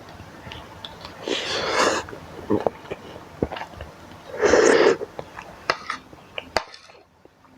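Close-up eating sounds of spicy instant noodles: two loud, noisy sucks of air, about a second and a half in and again about four and a half seconds in, with short clicks of the fork and spoon and chewing between them.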